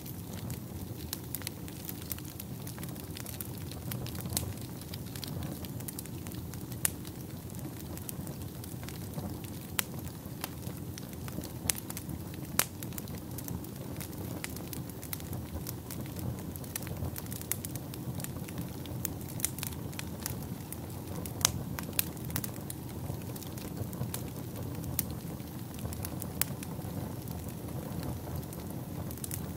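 Wood fire burning in a fireplace: a steady low roar of flames with frequent irregular crackles and pops, a few of them sharp and loud.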